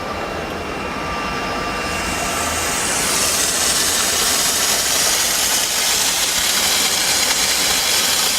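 Diesel mobile steam car washer running with a steady low hum. About two seconds in, steam starts jetting from its steam gun: a hiss that builds over about a second and then holds steady.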